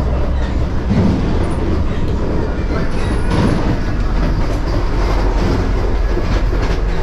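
Steady running rumble of the Vande Bharat Express, an electric multiple-unit train, in motion, heard inside the vestibule and toilet area at the end of a coach.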